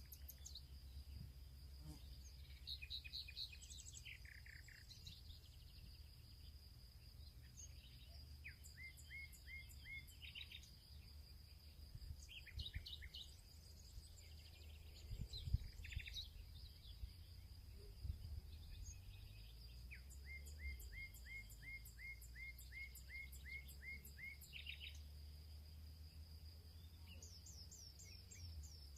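Several wild birds singing and calling in a field, with short chirps and trills of quickly repeated notes, over a steady high insect drone and a low rumble.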